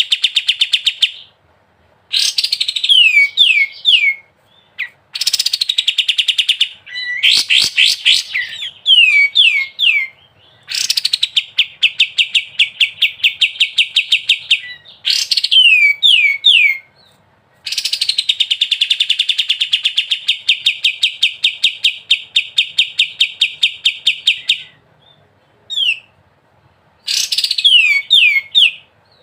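A kapas tembak songbird singing its rapid 'ngebren' song: long fast rattling trills, the longest running about seven seconds, broken by brief pauses and by quick runs of three or four falling whistled notes.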